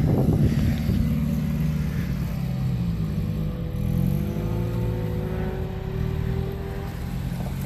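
Honda S2000-engined DP Escape trials car's engine pulling up a steep grass slope under load at low revs. Its pitch dips and rises again about halfway through, then climbs slowly.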